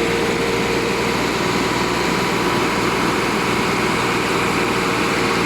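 Three-cylinder 2.5-litre Perkins-type T3.1524 diesel of a Massey Ferguson MF 360 tractor idling steadily.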